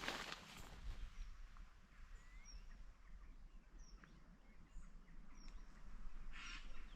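Faint outdoor ambience with a few short, high chirps of birds scattered through it, and a brief rustle about six and a half seconds in.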